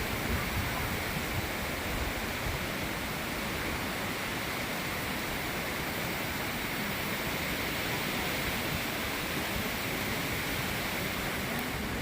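Strong wind blowing across the microphone: a steady rushing hiss with uneven buffeting in the low end.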